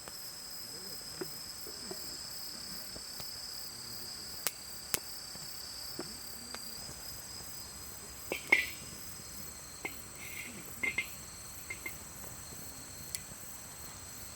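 Night insects trilling steadily in high-pitched bands, with a few sharp crackles and clicks scattered through, the loudest about eight and a half seconds in.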